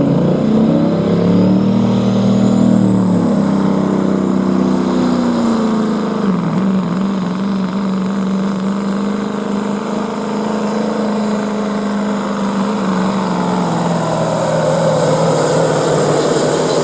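Limited pro stock semi truck's diesel engine at full power, pulling the sled down the track. The engine note shifts up and down over the first few seconds, then holds steady, with a high whine rising early on and holding over it.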